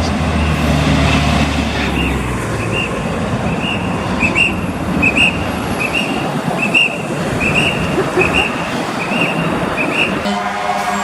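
Steady city street traffic noise with a low engine rumble in the first two seconds and a short high chirp repeating about once or twice a second. About ten seconds in, a fire truck's loud, steady warning tone starts.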